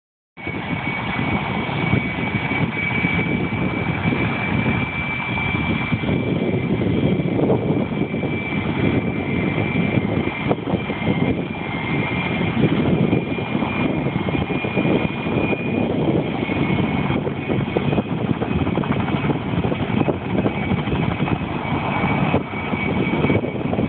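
Helicopter running during takeoff: loud, steady rotor and engine noise with a thin, steady high turbine whine above it.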